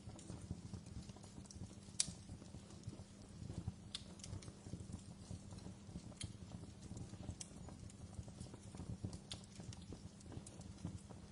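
Wood fire burning in a fireplace: a low steady rumble of flames with irregular sharp crackles and pops, the loudest pop about two seconds in.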